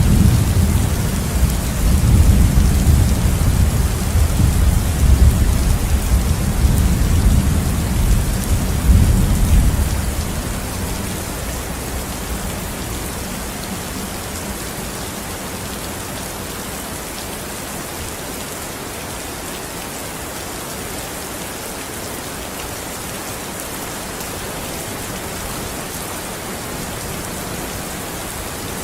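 Steady heavy rain with a long, low roll of thunder for the first ten seconds or so that dies away, leaving the rain alone.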